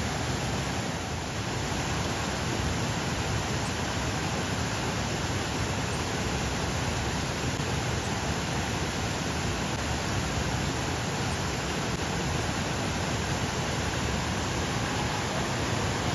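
Steady, even rush of water, like heavy rain or a fast river, with no breaks or distinct events.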